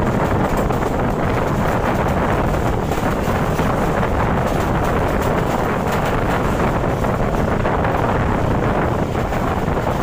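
Loud, steady wind buffeting the microphone together with the running noise of a passenger coach on the rails, heard from an open window of a train at high speed.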